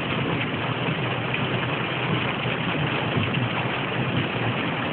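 Heavy rain falling on a car with its engine running: a loud, steady, even rushing noise.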